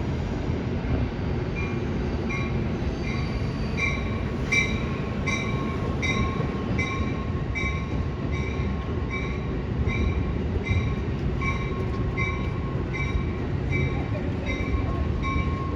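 Train passing with a steady low rumble, and a bell ringing evenly about once every three-quarters of a second from about two seconds in.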